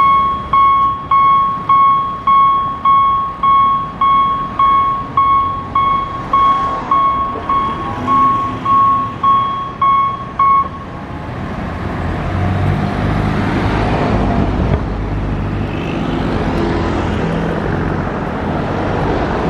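Level-crossing warning bell striking about twice a second, each ring fading, then stopping abruptly about halfway through as the crossing clears. Road vehicles then drive across, their engines running low and steady.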